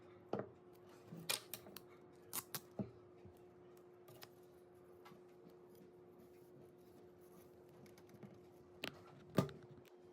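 Scissors snipping duct tape into thin strips: a cluster of quick, sharp snips in the first three seconds, then two more near the end, over a faint steady hum.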